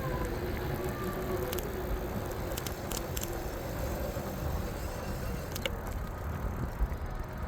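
Low, steady rumble of wind and road noise during an e-bike ride, with a few faint clicks.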